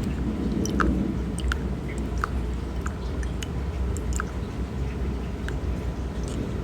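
Thunderstorm ambience: a steady low rain-and-storm rumble, with small drip-like ticks falling irregularly, about two a second.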